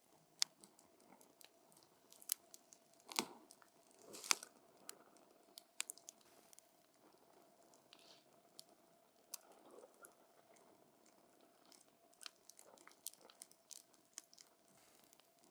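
Wood campfire burning, crackling with scattered sharp pops at an irregular pace; the two loudest pops come about three and four seconds in.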